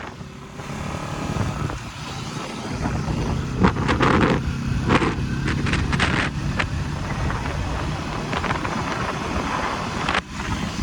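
Bajaj NS200 single-cylinder motorcycle engine running steadily at cruising speed, with road and wind noise, and a few brief louder bursts about four to five seconds in.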